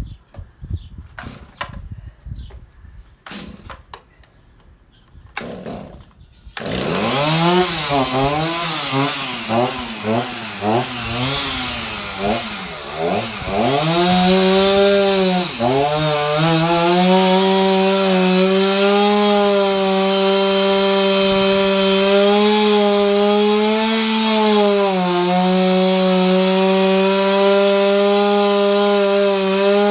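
A chainsaw, after a few knocks, starts about six seconds in. It revs unevenly up and down for several seconds, then runs steadily at high speed, dipping briefly twice.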